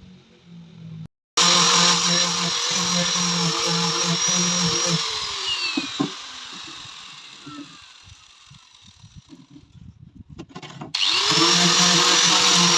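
An electric power tool with a drill-type motor switches on, runs at full speed with a high whine, then winds down with falling pitch about five seconds in. After a few seconds of scattered clicks it spins up again with a rising whine near the end and keeps running.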